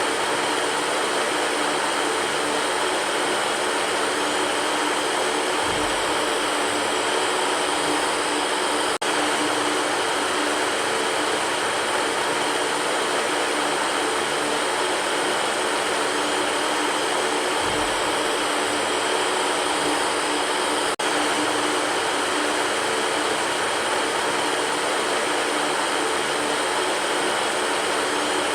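Electric fan running steadily: an even rushing hiss with a faint hum underneath, briefly dipping twice, about twelve seconds apart.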